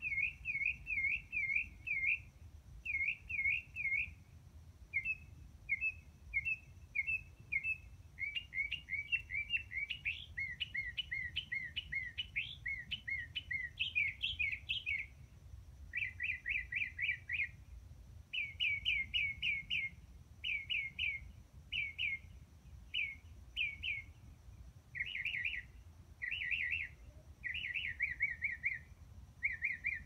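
Songbird singing at dusk: clear chirping notes given in quick runs of three to six, with short pauses between phrases, the notes crowding and overlapping for several seconds in the middle. A faint low rumble lies underneath.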